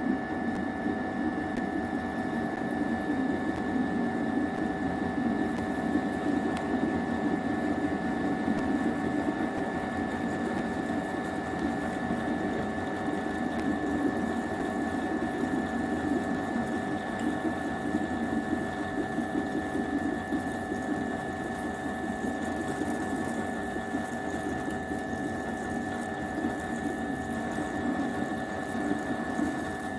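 A small motor-driven machine running steadily, with a constant high whine over a busy mechanical hum.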